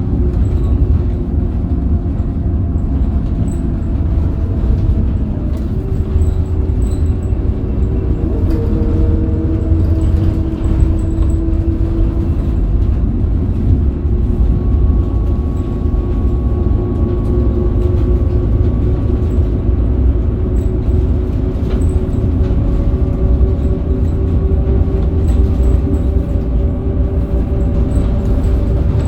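Scania K270UB city bus under way, its DC9 five-cylinder diesel and ZF Ecomat automatic gearbox heard together with road noise: a steady heavy rumble with whining tones on top. The whine drops in pitch about eight seconds in, then slowly climbs through the rest.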